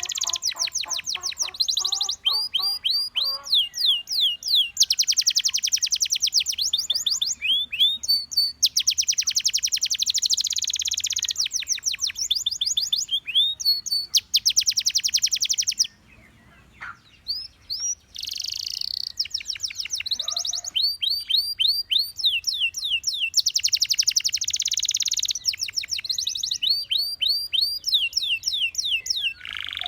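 Gloster canary singing: long fast trills alternating with runs of quick falling whistled notes, broken by a short pause a little past halfway.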